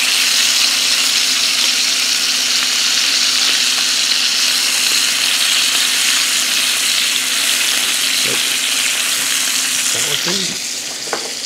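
Sea scallops searing in hot oil and butter in a frying pan, a steady loud sizzle as they are turned over; the sizzle eases a little near the end.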